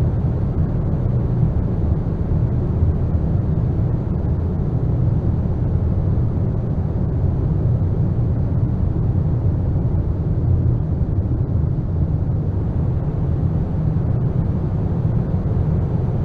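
Dark ambient noise music: a steady, deep rumbling wash of noise with no beat, melody or sudden hits.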